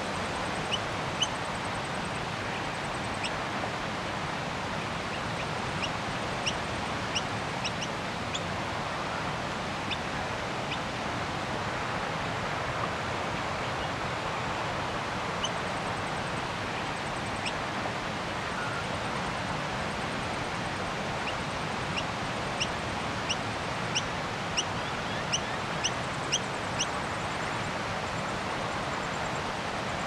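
Steady outdoor background hiss with small birds calling in short, sharp, high chirps: a few scattered near the start, then a run of about one a second in the second half.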